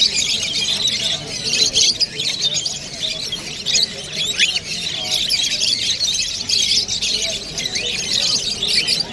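Many small caged birds calling at once: a dense, unbroken chatter of short, high chirps.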